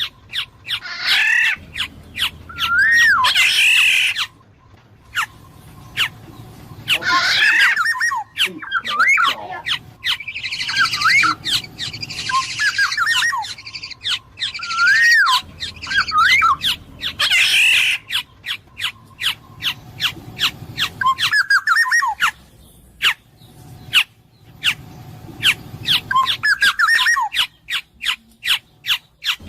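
Black-naped oriole (kepodang emas) calling: repeated fluty whistled notes that glide up and down, mixed with harsh squawking calls and many sharp clicks.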